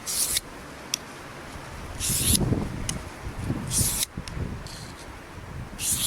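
Knife blade stroked across a wet 800-grit Japanese water stone: four short hissing scrapes, about one every two seconds, with a few light clicks between strokes.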